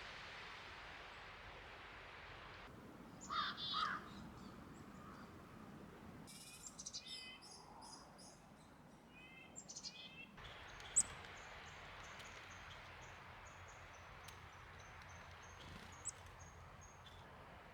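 Outdoor ambience with a steady hiss and birds calling: a loud two-part call about three seconds in, more calls in the middle, and thin high chirps through the second half. There is a sharp click about eleven seconds in.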